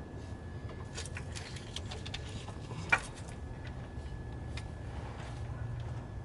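Scattered light clicks and knocks, one sharp click about three seconds in, over a low steady hum.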